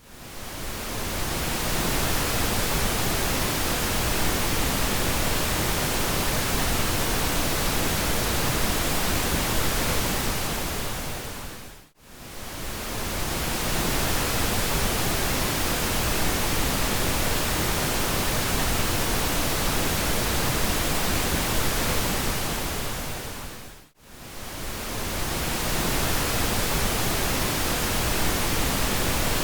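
Steady pink noise: an even, full-range hiss. It dips to near silence and swells back over about a second, twice, about twelve seconds apart.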